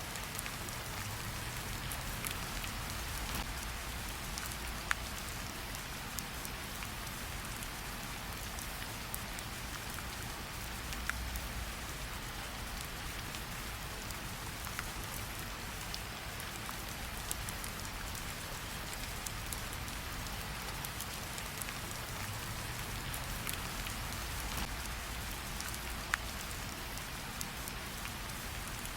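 Steady rain falling, with a few sharp crackles from a campfire standing out now and then.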